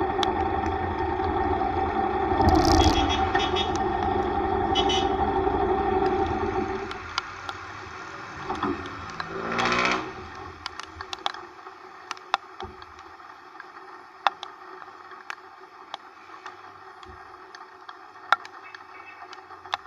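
Yamaha YTX125 motorcycle engine running steadily, then dropping away about seven seconds in. A short falling whine follows just before the halfway point, then a quieter stretch with scattered sharp ticks.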